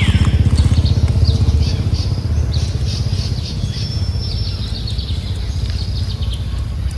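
Birds chirping, with a quick falling whistle at the start and short high calls in the middle, over a steady low rumble that is loudest in the first two seconds.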